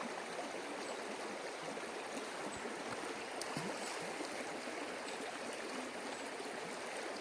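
A stream running over rocks, a steady rushing noise with a few faint clicks over it.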